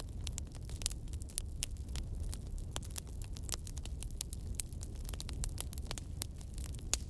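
Wood fire crackling: many sharp, irregular pops and snaps over a steady low rumble of the flames.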